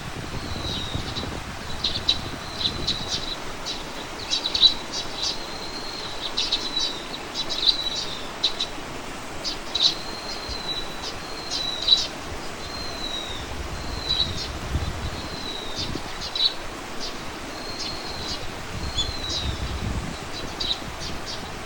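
Small songbird singing continuously: a busy string of short high chirps and downward-slurring whistles, with low wind rumble on the microphone now and then.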